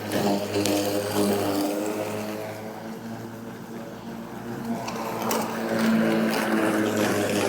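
Battery-powered electric lawn mower running steadily, its motor and blade under load cutting thick, wet grass. The hum drops somewhat in level through the middle and comes back up near the end.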